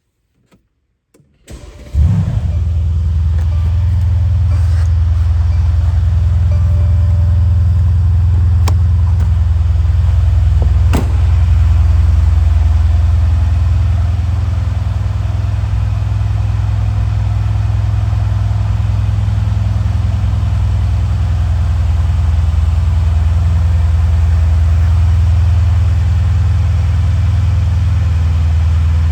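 Mercedes-AMG C63 S V8 engine cold-starting: it is cranked and catches about two seconds in with a short flare, then idles steadily. Two sharp clicks are heard later on.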